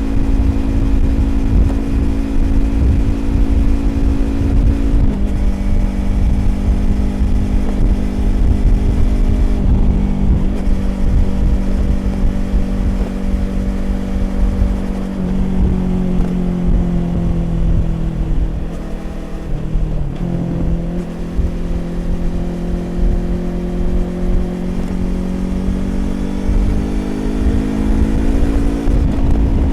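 2020 Yamaha YZF-R25's parallel-twin engine through a Prunus aftermarket exhaust, running on the move. Its pitch steps down about five seconds in and again around fifteen seconds, sags lowest a little later, then climbs steadily near the end as the bike accelerates.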